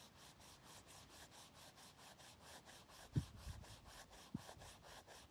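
Bicycle disc brake pad rubbed back and forth on paper to scrub the dirt off its friction surface: faint, quick scraping strokes, about five a second. Two dull thumps about three and four seconds in.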